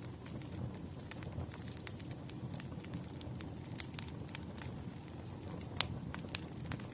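Burning firewood crackling and popping: irregular sharp snaps over the low, steady rush of the flames, with one louder pop near the end.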